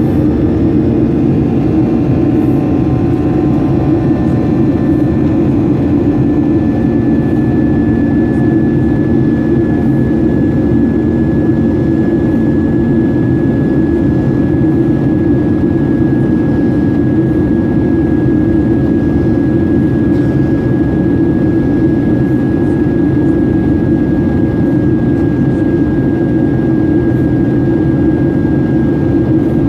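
Jet airliner's engines running with a loud, steady rumble and a thin high whine that slowly drifts a little lower in pitch.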